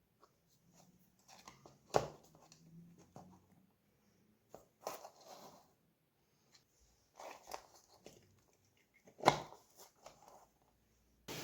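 Hands handling small hard parts: scattered clicks and knocks with crinkly rustling, with two sharp knocks standing out about two seconds in and near the nine-second mark. A steady rushing noise switches on abruptly at the very end.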